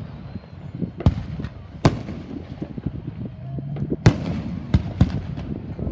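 Fireworks bursting overhead: about five sharp booms at irregular intervals, with lighter pops and crackle between them.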